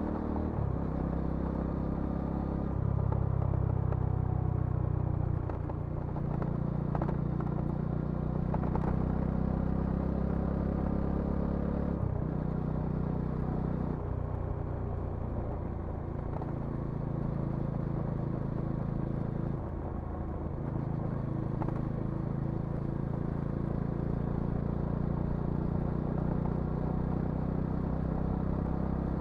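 Bajaj Dominar 400 motorcycle's single-cylinder engine and exhaust running under way. The engine note rises and falls with the throttle, and briefly drops out twice, at about 12 seconds and about 20 seconds, as in gear changes.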